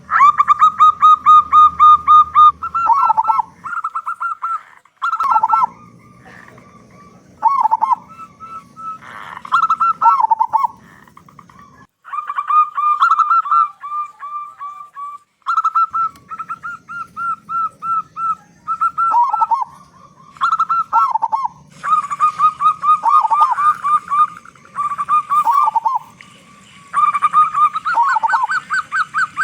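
Zebra dove (perkutut) cooing: loud, repeated phrases of rapid staccato notes, each phrase dropping into a few lower falling notes, with short pauses between phrases.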